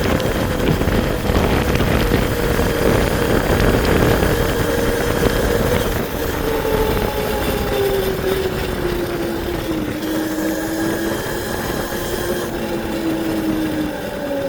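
Electric bike's motor whining while riding, its pitch falling slowly as the bike slows. Wind noise on the microphone is heavy at first and eases about halfway through.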